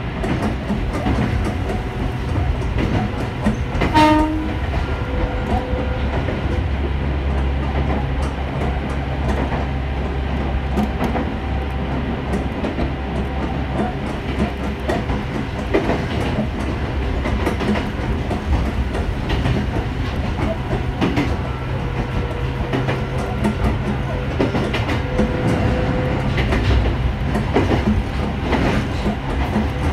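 Electric train running along the line, heard from inside the car: steady motor hum with wheels clacking over rail joints at regular intervals. A brief pitched tone sounds about four seconds in.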